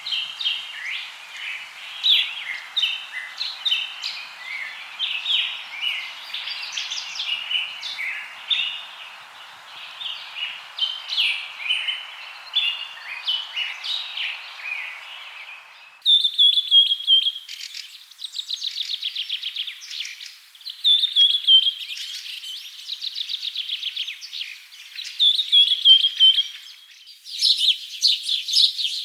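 Wild birds calling, a dense chorus of many overlapping chirps over a steady hiss. About halfway through, this gives way abruptly to a clearer run of repeated trills and falling whistled notes.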